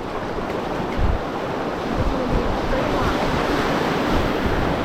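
Rushing river rapid water around a packraft, steady and fairly loud, with wind buffeting the microphone in low thumps.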